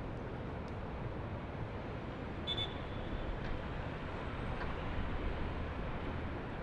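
Distant city traffic: a steady hum of vehicles with a low rumble, and a brief high-pitched squeal about two and a half seconds in.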